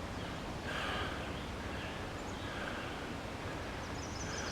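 Quiet outdoor ambience: a steady low hiss of background noise, with a few faint high chirps near the end.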